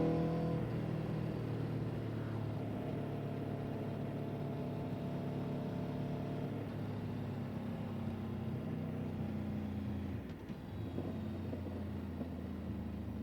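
Motor vehicle engine running at a steady speed after revving up, its pitch holding level, with a brief drop and change in tone about ten seconds in.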